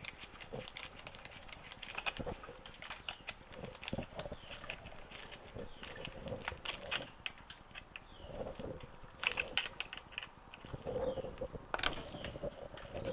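Flathead screwdriver turning a hose clamp's screw: irregular small metallic clicks and scrapes.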